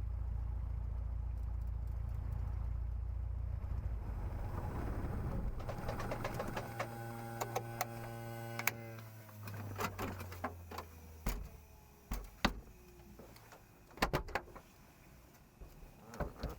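Cessna 150's Continental O-200 engine running at low idle, then winding down and stopping about eleven seconds in. After it, scattered clicks and knocks of handling in the cockpit.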